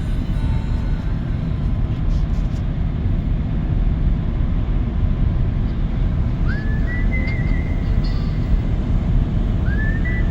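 Steady road and tyre noise inside a Cybertruck's cabin on a wet highway. Twice, about three seconds apart, a short high whistle-like squeal rises and then holds for about a second and a half.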